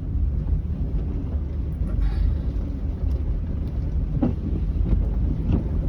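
Steady low rumble of a car driving, heard from inside the cabin, its tyres running over an unplowed snow-covered road.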